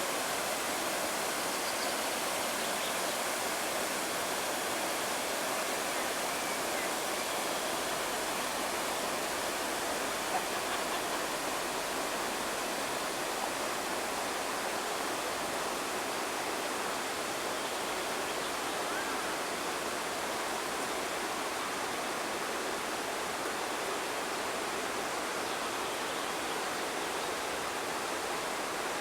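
Flowing water rushing steadily, a continuous even noise with one brief louder tick about ten seconds in.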